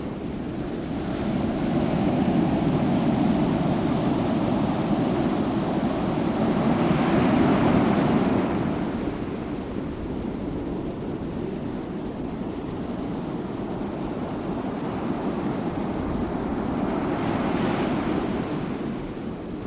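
Sea waves breaking and washing ashore, a steady rushing surf. It swells to its loudest about eight seconds in, eases off, then builds again with another wave near the end.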